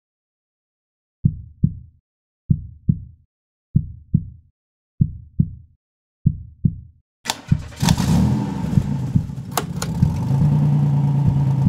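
A heartbeat sound effect: five double thumps, evenly spaced about a second and a quarter apart. About seven seconds in, a Toyota FJ Cruiser's V6 engine starts and settles into a steady idle, with a few sharp clicks.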